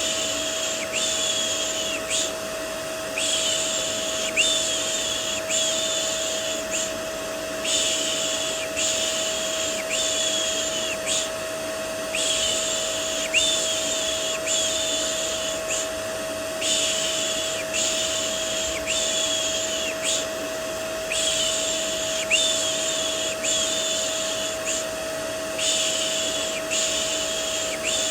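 Rhythmic 'shh' shushing for soothing a baby, in sets of four or five hisses with a new set about every four and a half seconds, layered over a vacuum cleaner running steadily with a constant whine.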